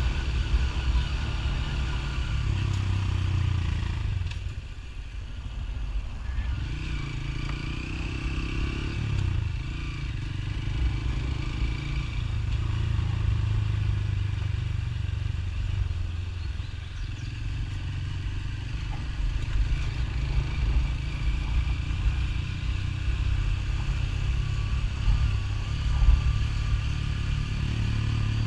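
Motorcycle engine running under way, a steady low rumble that eases off briefly about four seconds in and then picks up again.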